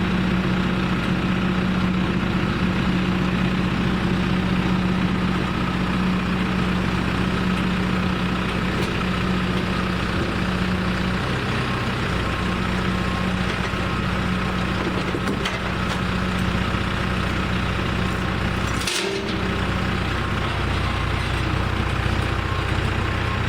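Vehicle engine running steadily with a constant low hum, with a short break about 19 seconds in.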